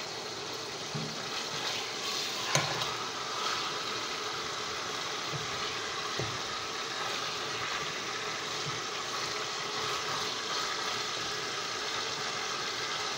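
Chicken pieces sizzling as they fry in a pot, a steady hiss, while they are stirred with a fork, which clinks sharply on the pot about two and a half seconds in.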